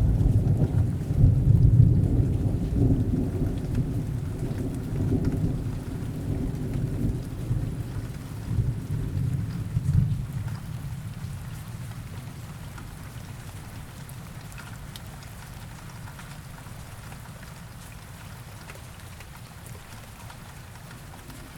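Rain falling steadily while a long roll of thunder rumbles and slowly dies away over the first half, leaving the rain alone.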